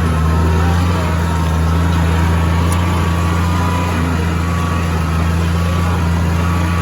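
Oliver tractor engine running steadily at a constant speed, with a deep, even drone.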